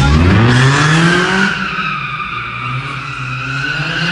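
A car engine revs up sharply, then the tyres squeal with a high, wavering pitch, as in a burnout or drift.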